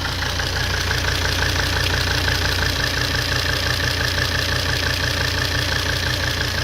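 Volvo D5 inline five-cylinder turbodiesel idling steadily, running with a seized injector's hold-down bolts slackened and carburettor cleaner poured around it to free the injector.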